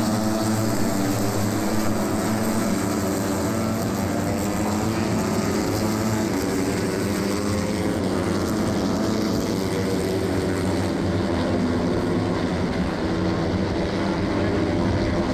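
Steady, layered drone of Moto3 race motorcycles lapping the circuit. Their 250 cc single-cylinder four-stroke engines blend into one continuous sound.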